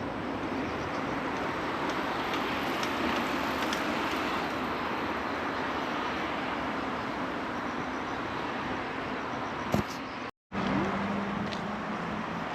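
Steady rush of road traffic, cutting out completely for an instant about ten seconds in.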